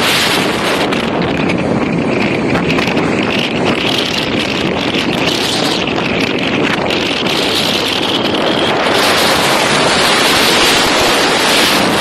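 Loud, steady wind buffeting the microphone on a moving motorcycle, mixed with the rush of the ride.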